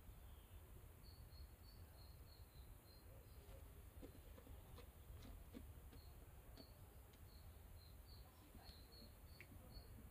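Near silence: a small bird chirping faintly, short high chirps about three a second with a pause midway, over a low wind rumble on the microphone.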